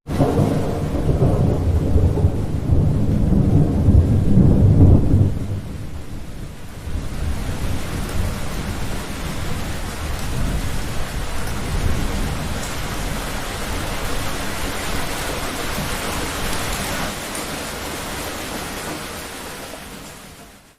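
Thunder rumbles loudly, starting suddenly, for about five seconds. Steady rain follows and fades out near the end.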